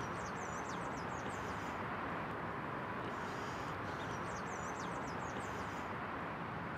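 A small songbird sings a quick, high twittering phrase twice, about three and a half seconds apart, over a steady background hiss of outdoor ambience.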